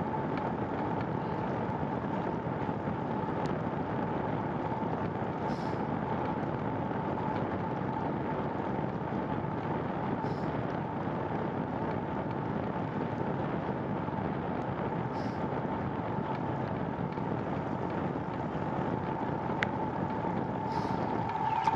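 Steady rolling noise of a bicycle being ridden along a wet trail, with wind on the microphone and a steady faint hum underneath.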